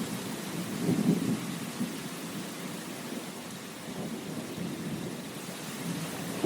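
Steady rain hissing, with low rumbles of thunder that swell loudest about a second in.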